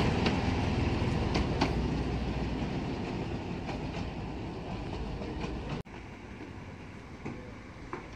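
Small diesel shunting locomotive and a passenger coach rolling past on 15-inch-gauge track: an engine and wheel rumble with sharp clicks over rail joints, fading steadily as they move away. About six seconds in the sound cuts off abruptly, leaving a quieter rumble with a few clicks.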